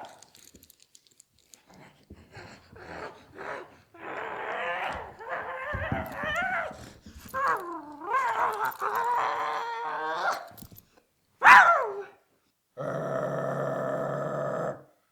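Dog-like vocalizing: a run of high, wavering whines that rise and fall in pitch, then one loud, short, falling yelp. It is followed by a steady electric buzz that cuts off abruptly.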